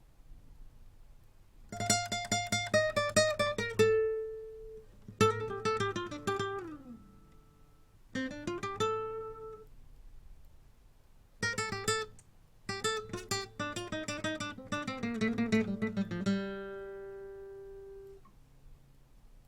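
A recorded guitar track played back through a compressor, in several short phrases of fast picked notes with sliding pitches. The last note rings out about two-thirds of the way through.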